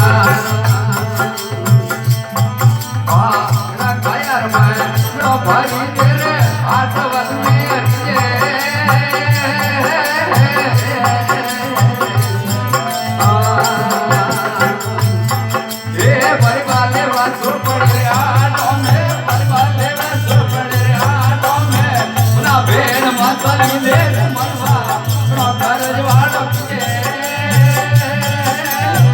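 Rajasthani folk devotional music (desi veena bhajan): a melody over a steady, pulsing rhythmic beat.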